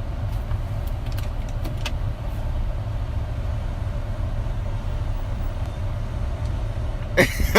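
Steady low rumble of a car on the move, heard from inside the cabin, with a few faint clicks. Near the end a loud voice cry breaks in.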